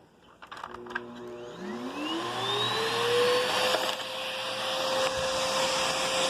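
Hoover Whisper cyclonic upright vacuum cleaner switched on: a few clicks, then the motor spins up with a rising whine over about two seconds and settles into a steady running whine with airflow rush.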